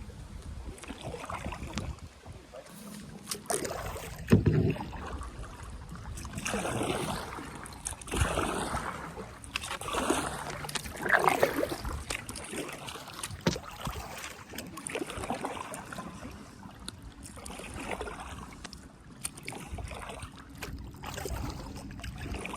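Kayak paddle strokes in the water, coming in uneven swells of splashing every second or two, with one sharp knock about four seconds in.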